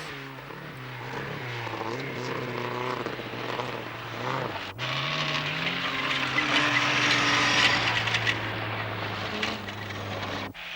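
Rally car engines running, one revving up with a rising pitch about five seconds in. The sound breaks off abruptly twice, once near the middle and once just before the end.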